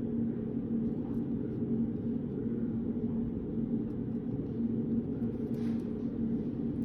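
Steady low hum of a study room's background noise, with a constant droning tone, and a faint brief rustle about five and a half seconds in.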